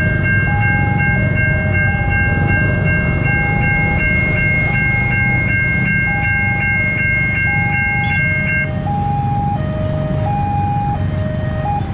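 Railway level-crossing alarms sounding: an electronic two-tone siren that switches between a higher and a lower tone about once a second, and a higher, rapidly pulsing alarm tone that stops about two-thirds of the way through, over a low steady rumble.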